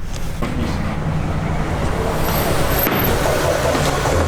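A car driving along, with steady engine and road noise.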